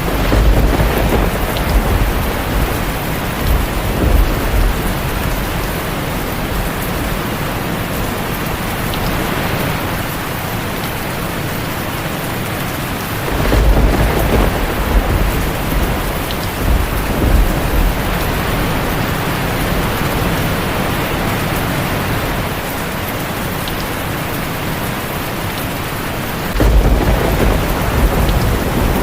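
Heavy rain drumming steadily on a tin roof, with thunder rumbling three times: at the start, about halfway through, and again near the end.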